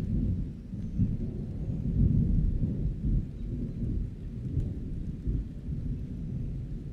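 Thunder rumbling low and long, swelling and easing, loudest about two seconds in, with rain faintly behind it.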